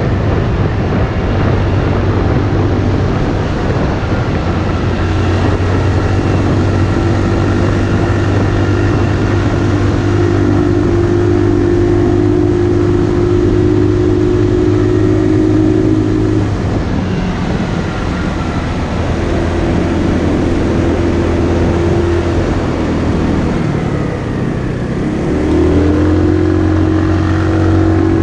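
Motorcycle engine running under way, holding a steady pitch and easing off twice, about two-thirds of the way through and again near the end, before picking up again each time.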